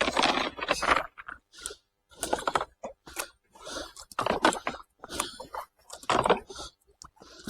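Kayak paddle strokes splashing in choppy river water: short, uneven splashes about every half second to a second, with brief quiet gaps between them.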